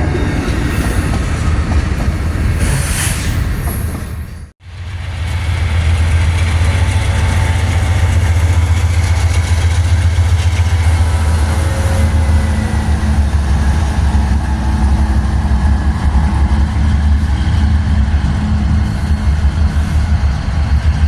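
Train running on the rails with a steady, heavy low rumble. The sound drops out suddenly about four and a half seconds in, then the rumble comes back.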